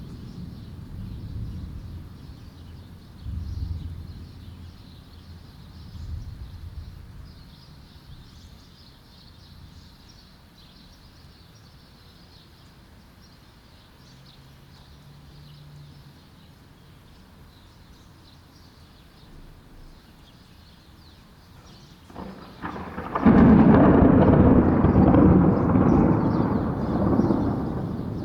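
Thunder: a low rumble dies away at the start with a couple of further low rolls, then a quiet stretch. About 22 seconds in a sudden loud thunderclap crashes and rumbles on for several seconds.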